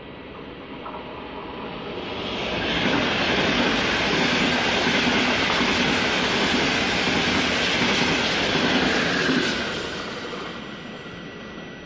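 Frecciabianca Pendolino tilting electric train passing at speed, its wheel-and-rail noise building up, holding loud for about seven seconds as the coaches go by, then fading away.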